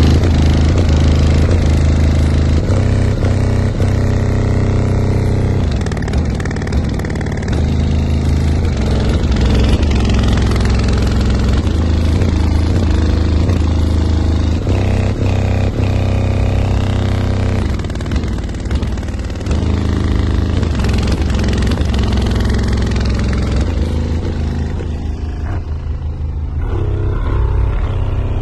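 Very loud, deep bass music pounding from a car audio system's subwoofers, with low bass notes held and changing every second or two.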